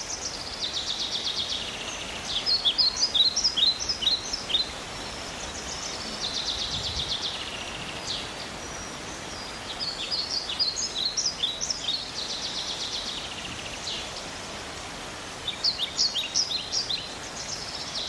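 A small songbird singing repeated phrases of fast high trills and runs of sharp down-slurred notes, over steady outdoor background noise.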